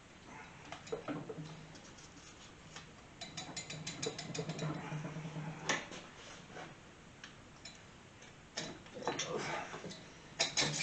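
Light metal clicks, knocks and rattles as the stuck cylinder head of a Kawasaki KZ400 engine is worked and pried loose. A quick run of small clicks comes about three to five seconds in, a sharper knock near six seconds, and another cluster of knocks near the end.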